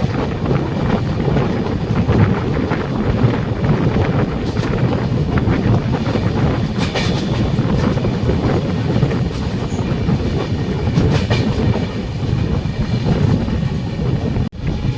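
Express passenger train running, with a steady heavy rumble and the wheels clicking over rail joints. The sound breaks off briefly near the end.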